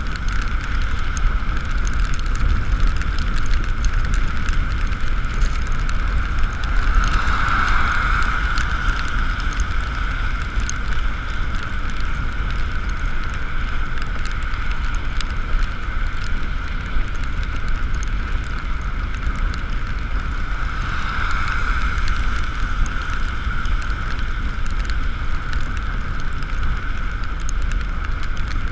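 Riding noise on an Ekoway ML5000 electric scooter in the rain: a steady low rumble of wind and road under a constant high whine, which swells twice, about a quarter of the way in and again about three-quarters through.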